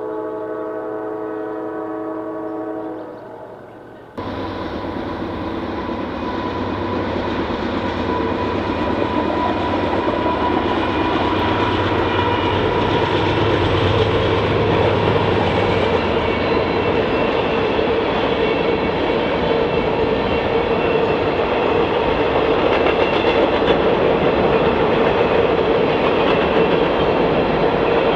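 A locomotive air horn sounds a chord of several tones for about three seconds. At about four seconds the loud noise of a passing train cuts in, with a diesel locomotive's low rumble fading out, then the steady wheel-on-rail clatter of a long train of cars rolling by.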